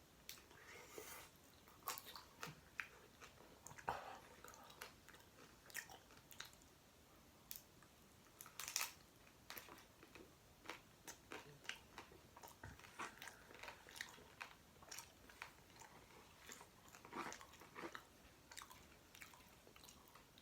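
Close-miked chewing and biting of a chickpea curry and mashed potato taco in a soft tortilla: an irregular run of small, quiet mouth clicks, with a couple of slightly louder bites.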